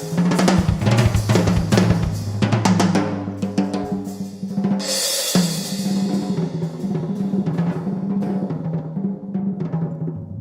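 Live drum kit playing busy rolls and fills on snare, toms and bass drum, with a cymbal crash about five seconds in. Low ringing notes hold steady underneath.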